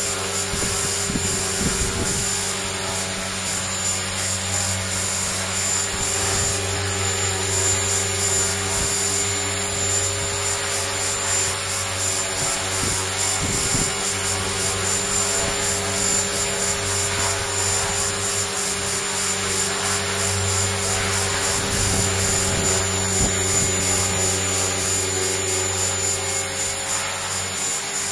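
HK-450GT 450-size electric RC helicopter hovering: a steady whir from the rotor blades with the constant tones of its brushless motor and gear train.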